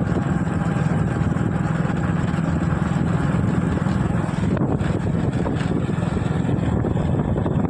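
Small motorcycle engine running steadily while riding, with wind noise on the microphone.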